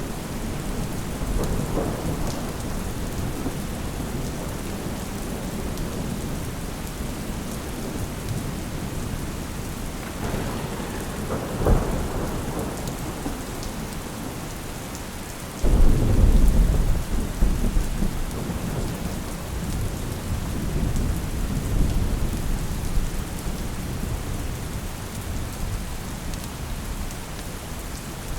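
Steady rain falling, with thunder: a sharp clap about twelve seconds in, then a loud roll of thunder that breaks in suddenly about sixteen seconds in and rumbles on, fading over several seconds.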